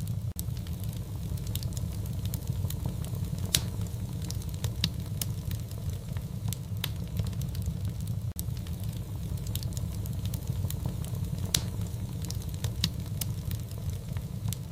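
Fireplace fire crackling: irregular sharp pops and snaps over a steady low rumble, with two louder pops, one about a third of the way in and one near three quarters.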